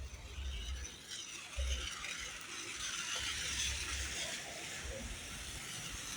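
Wet town-street ambience in the rain: a steady hiss that swells about a second in, with irregular low bumps.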